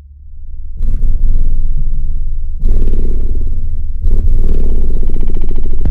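Earthquake DBXi 12-inch subwoofer playing heavy bass music, very loud, with deep pulsing bass that swells in and steps louder twice.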